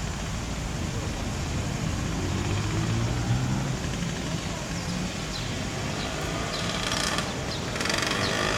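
Town street ambience with the hum of traffic. A motor vehicle's engine passes about two to four seconds in, and higher voice-like sounds come near the end.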